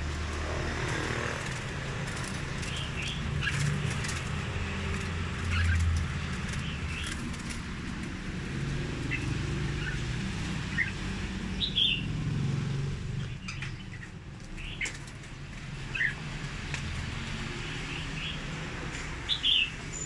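Caged birds giving short, scattered chirps every second or so over a steady low rumble.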